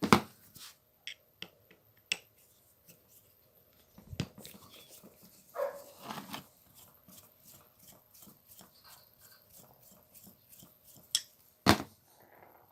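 Scattered clicks and knocks of tools and small metal parts being handled while an angle grinder is taken apart. There is a sharp knock at the start and two more near the end.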